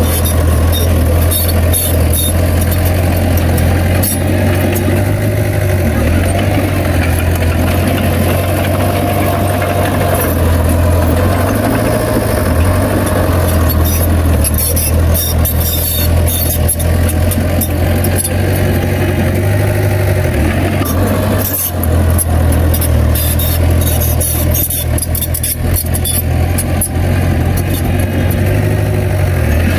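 Heavy diesel earthmoving machinery running steadily, its low engine note rising and dipping slightly, with frequent sharp metallic clicks and clanks.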